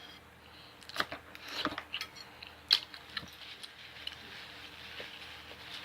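A person eating close to the microphone: faint chewing with a few short, sharp clicks.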